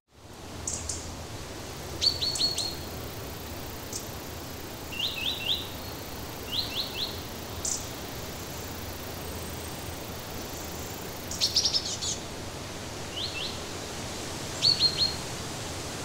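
Birds chirping in scattered runs of two to four quick, high notes over a steady background hiss.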